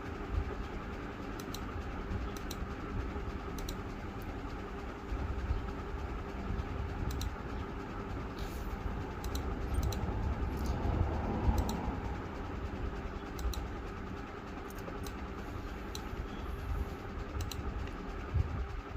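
Steady low background rumble with light, scattered clicks and handling noises.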